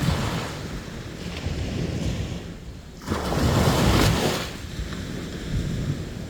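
Sea waves washing onto a beach, with one wave breaking loudly about three seconds in and fading over a second or so. Wind rumbles on the microphone.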